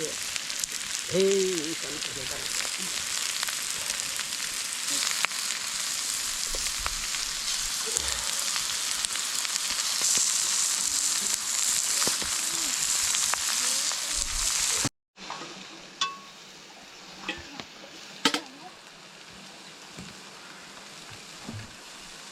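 Food sizzling as it fries in hot oil, with some stirring. About fifteen seconds in the sizzle cuts off abruptly, leaving a quieter stretch with a few sharp clicks and knocks.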